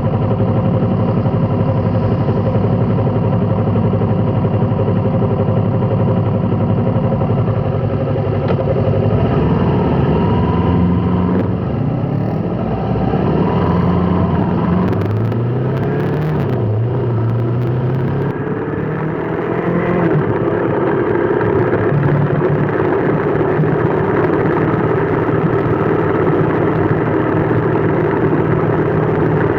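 Motor vehicle engine running steadily, its pitch rising and falling between about ten and twenty seconds in as it changes speed.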